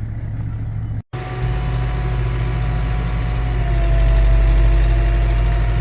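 Farm tractor engine running steadily. It cuts out briefly about a second in, then comes back louder with a steady whine, swelling a little past the middle.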